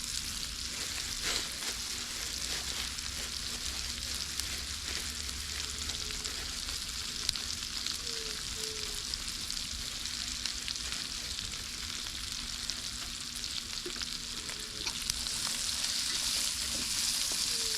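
Chicken and rice for a galinhada sizzling in a pot over a campfire: a steady frying hiss with scattered small pops, growing a little louder near the end.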